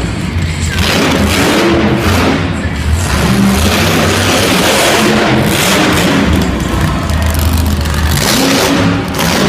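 Monster truck engine revving hard in repeated surges, with a loud rushing hiss over it.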